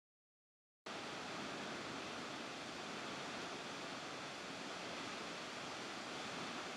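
Steady rushing of a waterfall, cutting in abruptly about a second in after dead silence.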